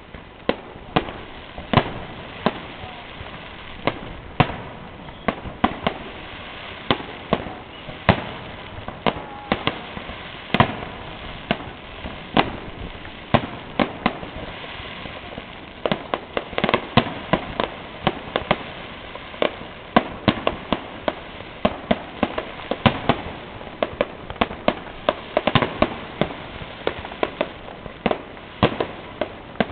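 Fireworks display: shells bursting in a steady series of sharp bangs over continuous crackling, the bangs coming faster from about halfway through.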